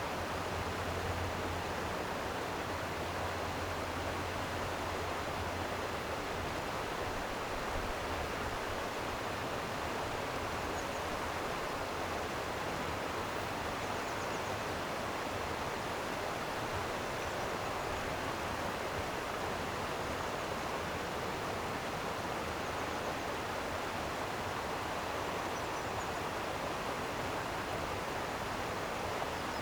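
Flowing stream water rushing steadily, an even, unbroken wash of sound.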